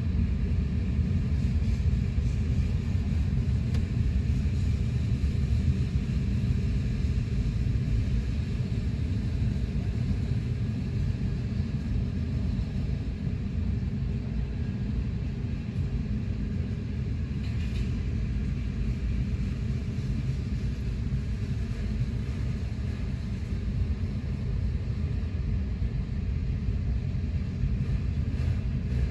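Freight train of autorack cars rolling past, a steady low rumble heard through the glass from inside a car's cabin.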